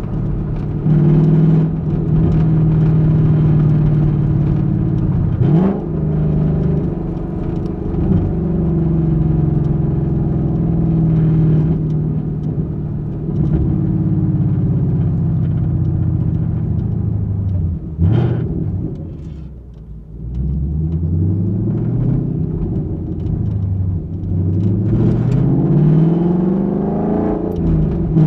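2021 Ford Mustang GT's 5.0-litre Coyote V8 exhaust, heard from a microphone in the trunk, while the car is driven through the gears. The engine note climbs and drops repeatedly as the car accelerates and shifts. It falls away and quietens about twenty seconds in, then rises steadily again near the end.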